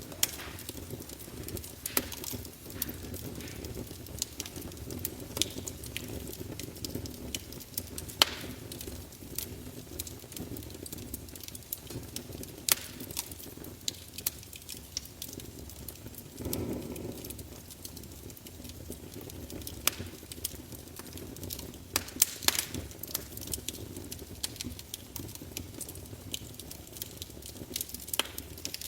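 Wood fire burning in a fireplace: many sharp crackles and pops over a steady low rumble of flame, with a brief louder surge about halfway through.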